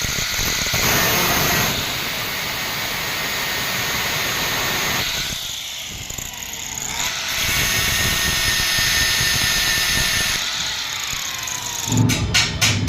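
An electric power tool running under load on steel, a continuous harsh noise with a faint motor tone that sags and recovers. A rapid rattle of clicks comes in near the end.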